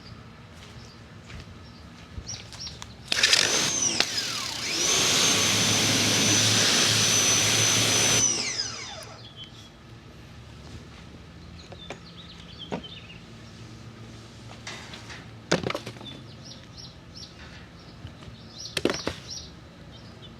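Ryobi 2000 PSI electric pressure washer: its motor whines up to speed about three seconds in, runs with a high steady whine and the hiss of the spray for about five seconds, then winds down with a falling whine when the trigger is let go. Scattered light knocks follow.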